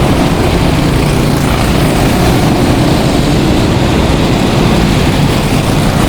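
Several go-kart engines running steadily as the karts race around the track.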